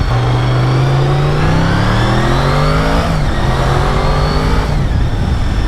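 Honda VFR750's V4 engine accelerating hard, its pitch climbing, dropping sharply on an upshift about three seconds in, then climbing again before another shift near the end.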